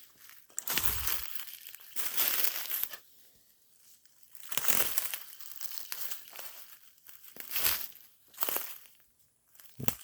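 Dry leaves and brush crunching and rustling in about six irregular bursts, some with a dull thump, as from someone stepping and pushing through thick undergrowth.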